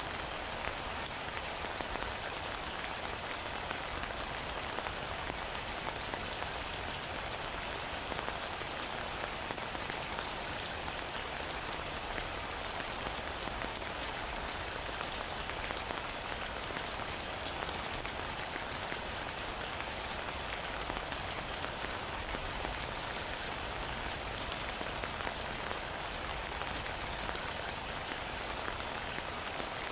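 Heavy rain falling in a steady, even patter that holds unchanged throughout.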